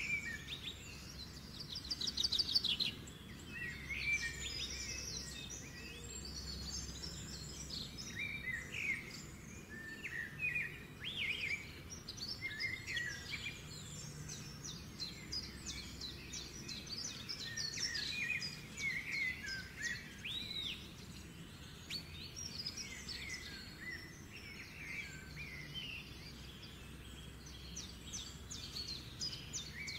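Many birds chirping and trilling, short calls overlapping one another, over a steady low background hum.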